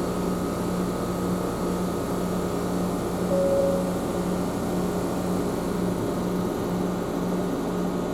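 Omi Railway electric train running between stations, heard from inside the car: a steady running rumble with a pulsing hum. A brief higher tone sounds about three seconds in.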